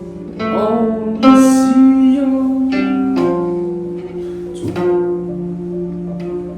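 A Chinese plucked zither is being played: single plucked notes ring out and fade over steadily sounding lower notes. A few notes are bent, sliding in pitch after the pluck, about half a second in and again near five seconds.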